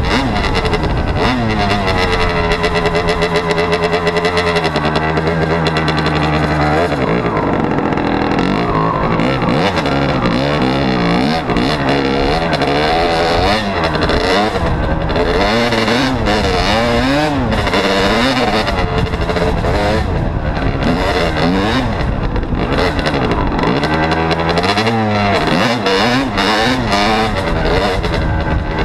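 Dirt bike engine running hard, loud throughout. Its revs are held fairly steady at first, then rise and fall over and over as the throttle is worked, roughly once a second.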